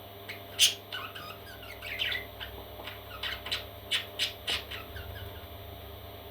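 Parrot chicks squawking in a string of short, harsh calls, the loudest about half a second in, and the calls die away after about five seconds. A steady electrical hum runs underneath.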